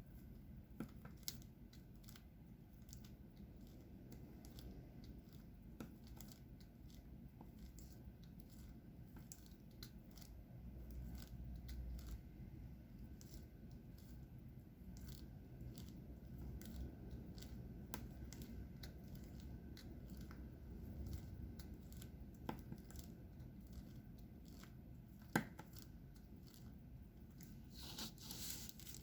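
Faint, scattered small clicks and taps of diamond painting, with one sharper click near the end followed by a brief rustle.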